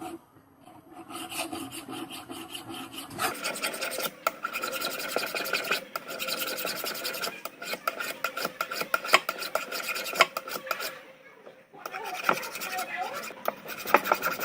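Hand abrasive work on a steel scissor blade: quick, repeated rasping strokes with a faint metallic ring. It is lighter for the first few seconds and stops briefly near the end before starting again.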